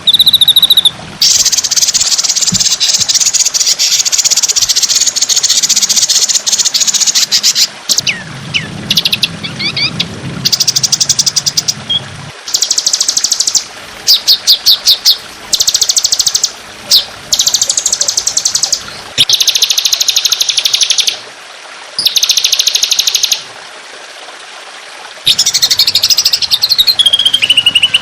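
Recorded songbird song of the kind used to tutor cage birds: dense, rapid-fire trills in bursts of one to several seconds, with short gaps between them. The first burst is the longest, about six seconds.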